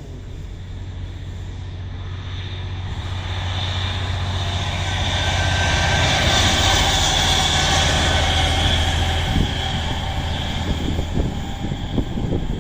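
Class 57 diesel locomotive's two-stroke EMD V12 engine passing: a steady engine drone that grows louder to a peak about six to eight seconds in, then eases, with a run of short knocks near the end.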